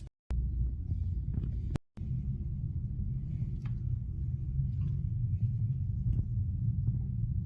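Wood fire burning: a steady low rumble with scattered crackles and pops from the burning firewood.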